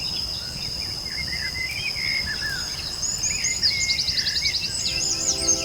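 Jungle ambience: a steady high-pitched insect drone with assorted birds chirping and trilling over it. Soft sustained music notes come in near the end.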